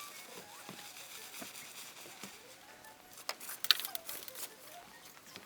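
A few sharp clicks and knocks over low background noise, clustered a little past the middle, with one louder click among them.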